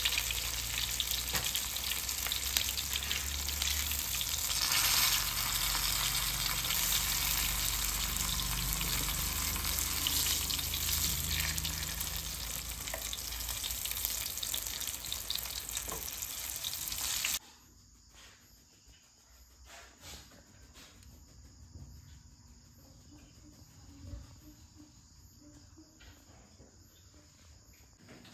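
Food frying in hot oil in a pan, a dense sizzling hiss with crackles. It cuts off abruptly about seventeen seconds in, leaving only a faint background with a few soft clicks.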